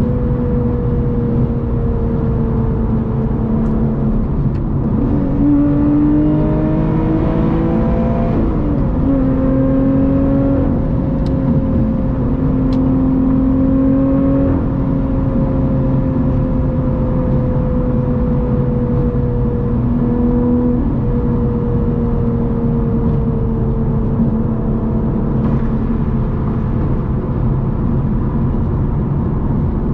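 Lotus Evora GT's supercharged 3.5-litre V6 with a titanium exhaust, running steadily at highway speed over tyre and road noise. The engine note shifts in pitch between about five and nine seconds in, then drifts slowly lower, with another change near twenty seconds.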